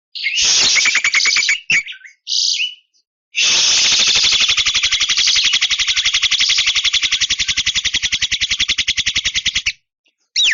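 Javan myna calling: a short fast rattle, a brief note, then a long fast, even rattle lasting about six seconds that stops abruptly.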